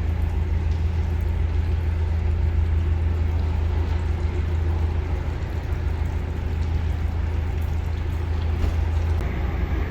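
Narrowboat diesel engine running steadily with a low drone, easing slightly about nine seconds in.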